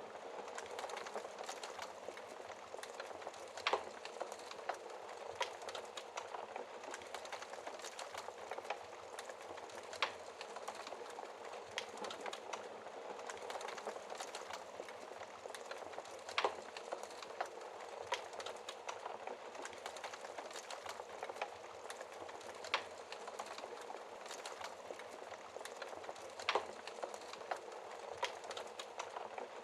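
Wood fire burning in a fireplace: a steady hiss and fine crackle of burning logs, with a sharper pop every several seconds.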